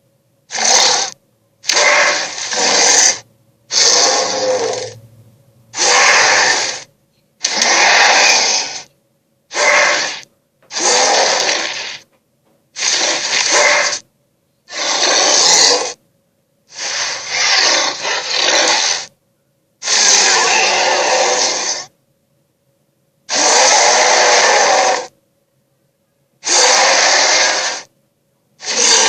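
Sea-monster creature sound effects played one after another: about a dozen noisy bursts of one to two seconds each, each one cut off abruptly with silence between.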